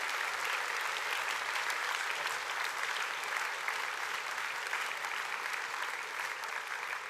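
An audience clapping steadily for a few seconds, dying away just after the end.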